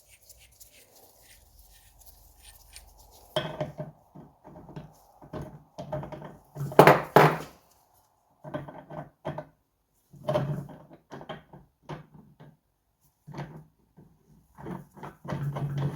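Hand tools knocking and clattering against metal engine parts: a run of irregular sharp knocks and short rattles starting a few seconds in, the loudest cluster about seven seconds in.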